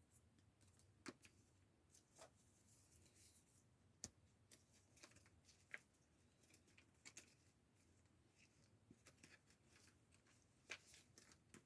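Faint, scattered rustles and light clicks of sticker sheets being handled and flipped through in a search.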